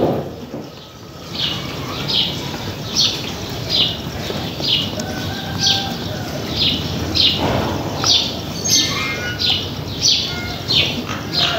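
A bird chirping over and over, short high chirps about one and a half a second, over a steady background hiss.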